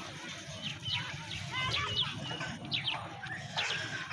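Birds chirping over and over: many short, high calls that slide downward in pitch, over a low background rumble.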